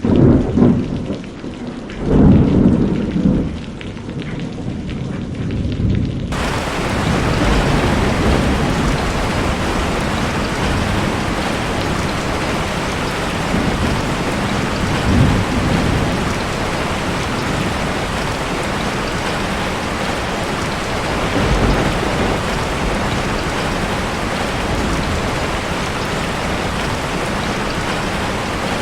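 Thunderstorm: two rolls of thunder in the first few seconds. About six seconds in, a heavy, steady rain hiss starts abruptly and continues, with a few more low rumbles of thunder under it.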